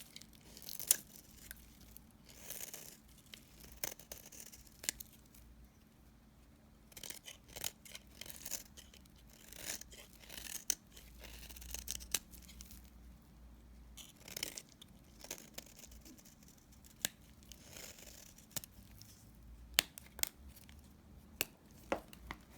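Knife cutting through leftover bar-soap remnants: irregular crisp snaps and cracks, with short scraping strokes between them.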